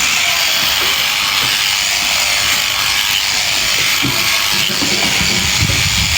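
Electric sheep-shearing clippers running steadily as they cut through fleece.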